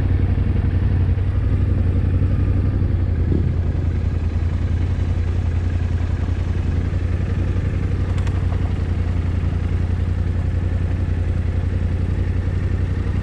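Yamaha Ténéré 700's parallel-twin engine running steadily, with a strong low, even note.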